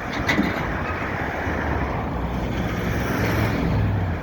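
Road traffic passing close by, with a heavy vehicle's engine hum growing louder toward the end, and a single sharp knock just after the start.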